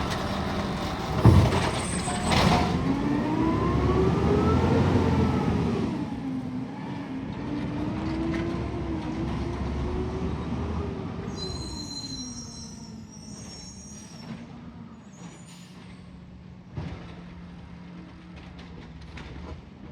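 Garbage truck engine revving up and down for several seconds, with a couple of loud bangs at the start. It then eases off to a quieter rumble, with some brief high squeaks in between.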